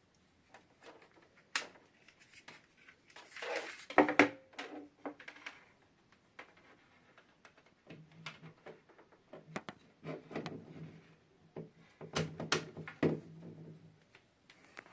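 Scattered clicks, taps and knocks of hands handling small plastic objects such as a router and its power adapter, loudest about four seconds in and again near the end. A faint low hum comes in about halfway through.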